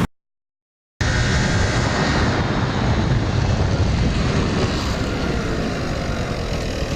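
About a second of dead silence, then a motorcycle running with heavy wind rush on the microphone, its engine note slowly falling.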